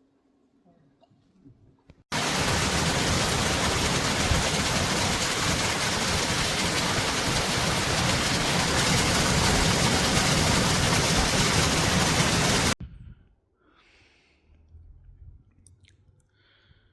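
Heavy rain: a loud, steady rushing noise that starts suddenly about two seconds in and cuts off abruptly about ten seconds later.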